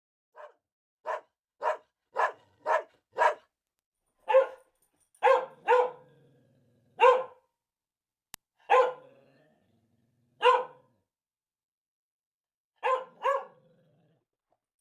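A dog barking: about fourteen short barks, a quick run of six at first, then spaced out in ones and pairs with pauses between.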